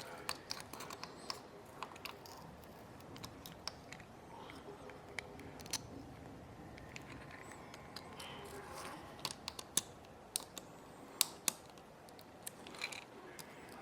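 Irregular small clicks and light taps of hand tools and fingers working on a 6th-generation iPod nano's tiny parts during a power-button repair, coming more often and a little louder in the second half.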